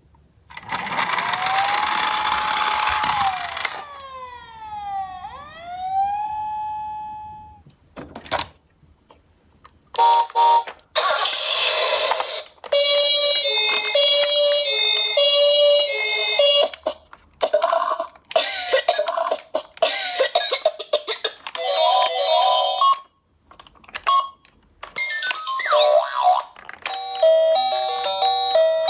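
Electronic toy ambulance siren sounds. A burst of noise with a held tone is followed by a falling-then-rising siren sweep, then short repeated bursts of beeping two-tone siren chimes and jingles.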